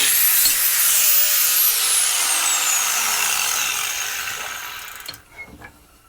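Electric power tool cutting steel with a loud hiss, then switched off about a second in, its motor whine falling steadily in pitch as it coasts down and fades over the next few seconds. A couple of light knocks follow near the end.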